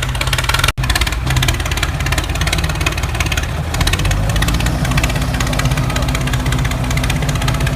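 Small motor running with a steady fast buzz, cut off for an instant a little under a second in; about four seconds in a steady low hum joins it.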